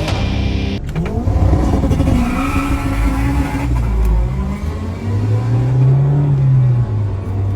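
Turbocharged K20A2 four-cylinder in an AWD Honda Civic hatch under acceleration: engine pitch rising, then holding with a slow rise and fall near the end. A burst of heavy-metal music cuts off about a second in.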